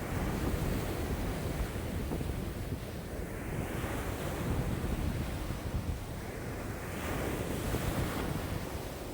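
Lake waves washing in strong wind of about 5 m/s, the wash swelling and falling back every few seconds, over a steady low rumble of wind on the microphone.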